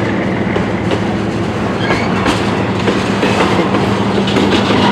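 CN mixed freight train moving off, its diesel locomotives running with a steady low hum while wheels clack over the rail joints.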